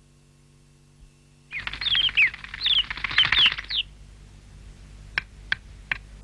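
Small bird chirping: a quick burst of twittering, several rapid falling notes, starting about a second and a half in and lasting about two seconds, then three short sharp ticks near the end.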